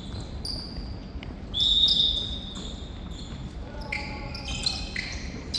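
Indoor court game sounds from a korfball match: players' shoes squeaking on the hall floor in short high squeals, the loudest a long squeak about a second and a half in, over the hall's low rumble.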